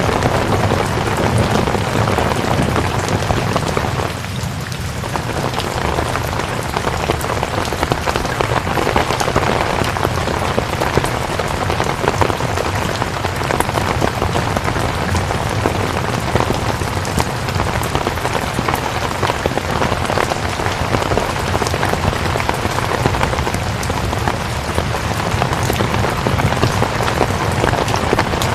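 Steady rain: a dense, even wash of falling water with many fine drop ticks. It dips briefly about four seconds in.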